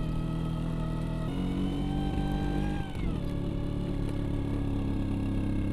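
Vespa scooter engine running under way. Its note steps up about a second in, drops about three seconds in, then holds steady.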